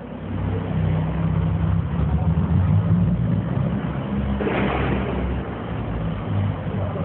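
A car engine running with a steady low hum, and a brief rushing noise about four and a half seconds in.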